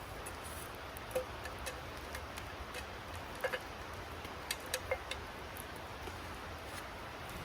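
Scattered sharp ticks and clicks, irregular and loudest a few seconds in, over a steady hiss.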